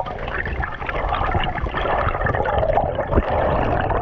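Water sloshing and splashing close to the microphone, with a low rumble underneath.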